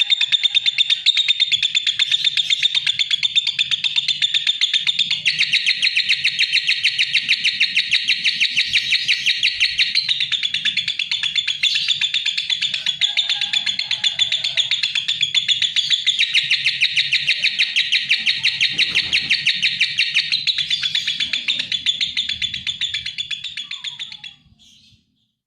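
Lovebird chattering: a long, unbroken run of rapid, shrill chirps that stops shortly before the end.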